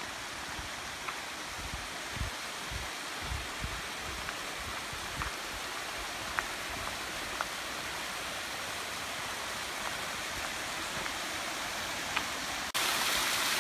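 Creek water running over small waterfalls, a steady rush of water that becomes suddenly louder near the end.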